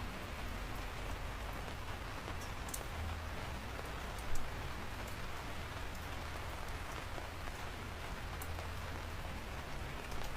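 Steady rain falling, with scattered sharp drop hits over the even patter and one louder hit about four seconds in.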